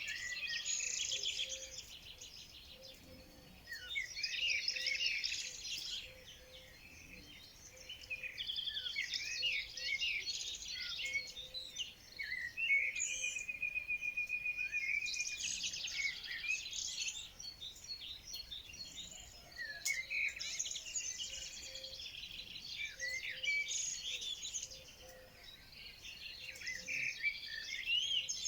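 Several songbirds singing in overlapping bursts of chirps, whistles and fast trills that come and go every few seconds, with one bird holding a steady even trill for a couple of seconds near the middle.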